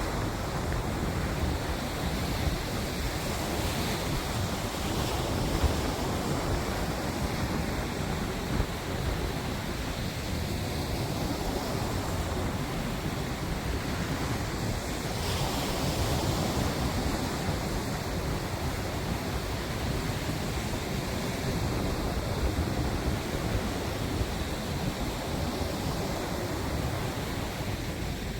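Steady wind buffeting the microphone over a constant wash of water.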